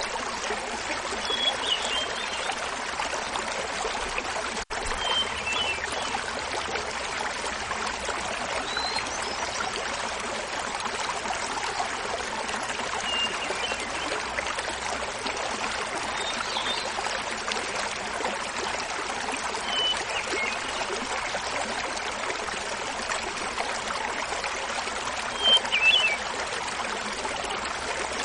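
Small mountain waterfall splashing steadily, with a hermit thrush singing short, high, flute-like phrases every few seconds over it; the loudest phrase comes near the end.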